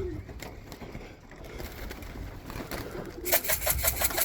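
Pigeons cooing low in the loft, then about three seconds in a fast, even rattle of roughly nine strokes a second starts and carries on.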